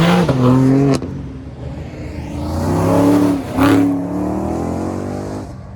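Car engine revving hard in two loud pulls, its pitch climbing then holding, with a sharp crack about a second in.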